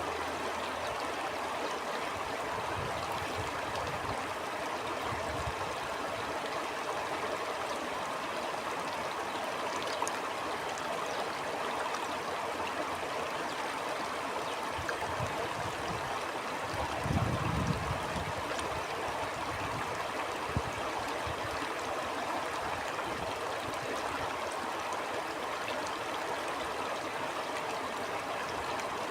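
Stream flowing steadily over stones, an even rushing and trickling of water. A low rumble of wind gusts through about two-thirds of the way in.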